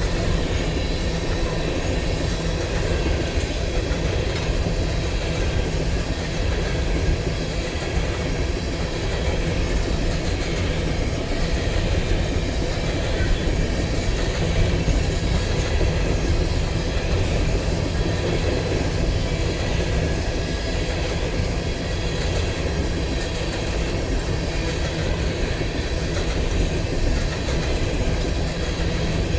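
Train cars rolling along the rails in a steady, unbroken rumble of wheels on track.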